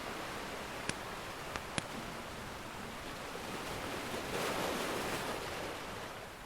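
Ocean surf washing steadily, with one wave swelling in about four seconds in and easing off. A wood fire crackles with three sharp pops in the first two seconds.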